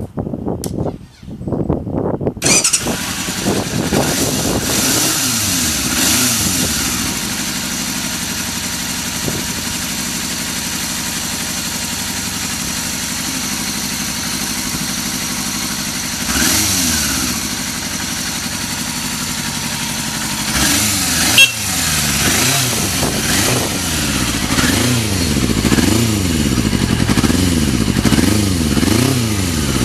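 Yamaha FZR400RR (3TJ) inline-four through an aftermarket Daishin muffler: the starter turns it over briefly and it catches about two seconds in, then settles to a steady idle. It is blipped once in the middle and revved up and down repeatedly over the last several seconds.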